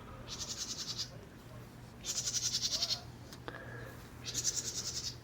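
A wren's rapid, buzzy chattering call, given three times in bursts of about a second each, roughly two seconds apart.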